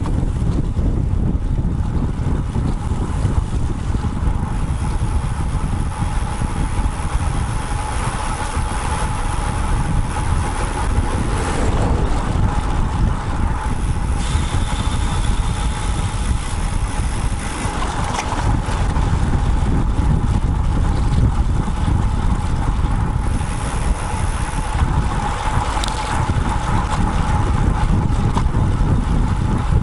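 Wind buffeting the microphone of a bike-mounted action camera on a moving road bike, a steady rumble, with road traffic swelling past several times.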